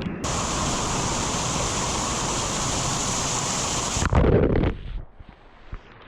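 Floodwater rushing in a swollen creek: a steady, loud rush of water that cuts off about four seconds in, followed by a brief louder low blast and then a quieter stretch.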